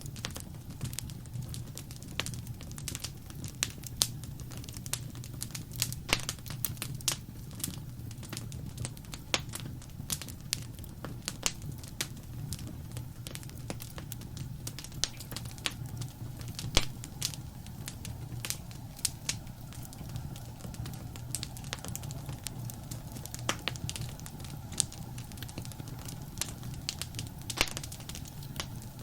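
Wood fire crackling: irregular sharp pops and snaps, a few of them louder, over a steady low rumble of the flames.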